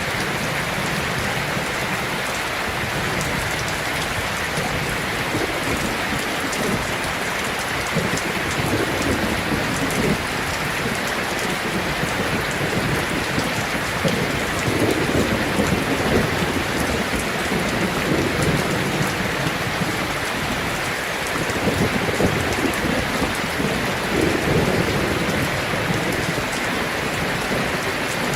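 Heavy rain drumming steadily on a tin roof, with low rolling rumbles of thunder swelling through the middle and again later on.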